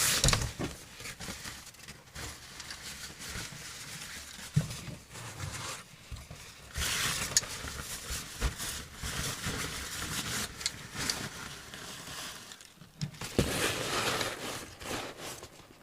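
Things being handled at close range in a small room: irregular rustling and crinkling with scraping and scattered sharp knocks.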